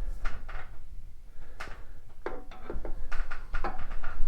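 Factory lapping tool worked in and out of a 1953 Harley-Davidson K-model main bearing race with lapping compound: a series of uneven scraping, rubbing strokes as the lap grabs and cuts the race.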